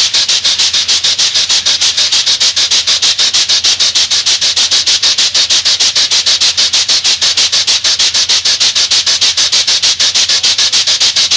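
Steam locomotive exhaust chuffing fast and evenly, about eight sharp hissing beats a second, as the engine works steadily.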